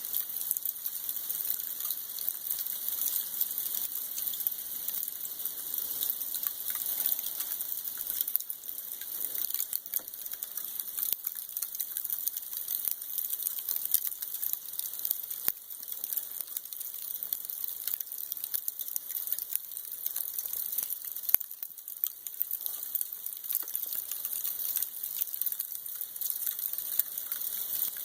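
Freezing rain falling steadily: a dense, even patter of fine ticking drops with a high hiss, never letting up.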